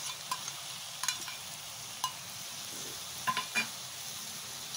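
Chopped onion, capsicum and tomato sizzling steadily in a kadai over a low gas flame, with a few sharp clicks of a steel spatula against the pan.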